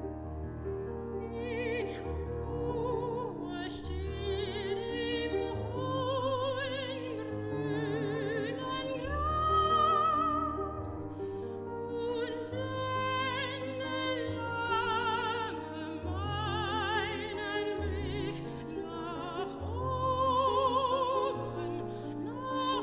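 A classical soprano sings with wide vibrato over piano accompaniment; the piano plays alone at first and the voice enters about a second and a half in.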